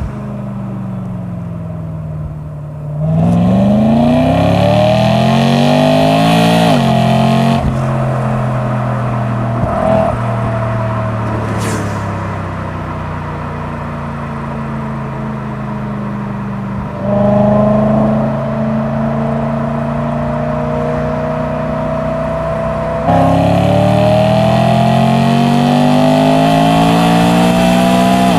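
BMW E92 M3's naturally aspirated S65 4.0-litre V8 with an M Performance exhaust, heard from outside while driving. Its pitch climbs under hard acceleration about 3 s in and again from about 23 s in to the end. Between the two climbs the engine cruises steadily with a slowly falling note, opening up briefly near the middle.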